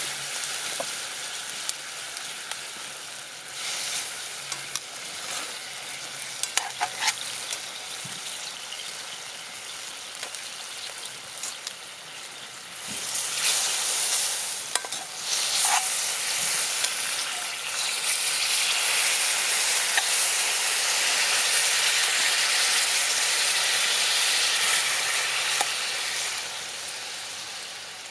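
Food sizzling as it fries in a pan over a campfire, with a few sharp clicks of a utensil stirring it. The sizzle grows louder about halfway through and eases off near the end.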